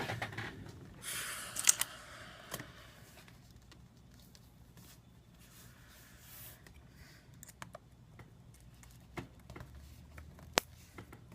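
Faint scraping and scattered light clicks of tools prying the glued glass panel off an iPad 2. A short scraping stretch comes about a second in, and single clicks follow every second or so.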